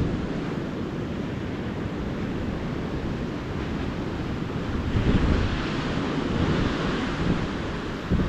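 Small ocean waves breaking and washing up a beach, one wave breaking louder about five seconds in, with wind buffeting the microphone in low rumbles.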